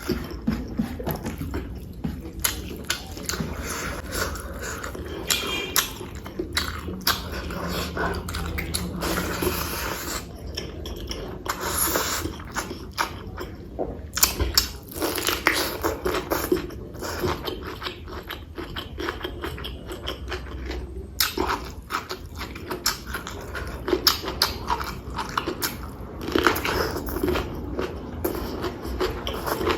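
Close-miked mukbang eating: a mouthful of pork curry and rice being chewed, with many short wet smacks and clicks throughout.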